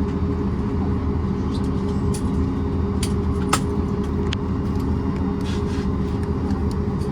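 Steady low engine rumble heard from inside a vehicle, with a few scattered light clicks and knocks.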